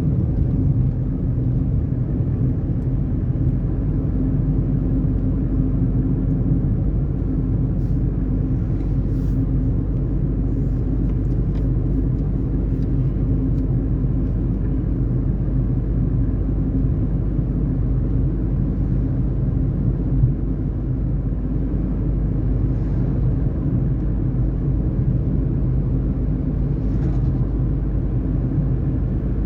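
Tata Tiago NRG being driven at a steady pace: a continuous low engine and road rumble from its three-cylinder engine, holding an even pitch, with a few faint ticks.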